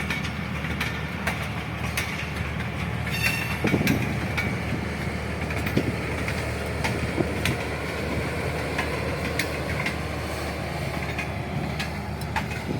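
Passenger coaches of the Awam Express running through a station without stopping: a steady rumble of wheels on track with frequent clicks as the wheels cross rail joints, and a brief high squeal about three seconds in.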